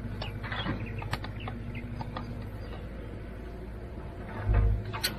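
Small birds chirping now and then, with a few sharp handling clicks and a brief low rumble near the end.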